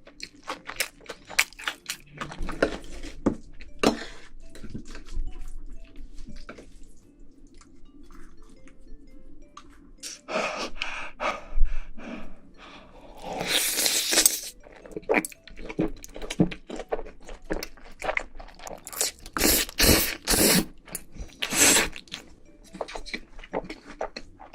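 Close-miked chewing of pizza: a steady run of wet mouth clicks and smacks, with several louder bursts of crunching partway through.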